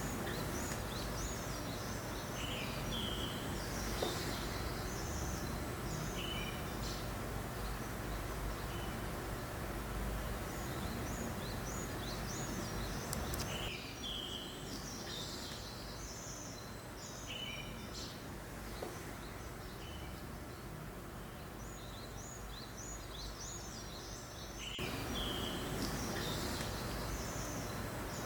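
Small birds chirping in short, repeated calls over a steady hiss of gentle breeze. The background changes abruptly twice, about a third of the way in and again near the end.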